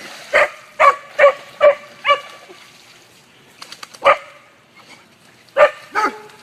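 A dog barking in short, sharp barks: a quick run of five, then a single bark, then two more near the end.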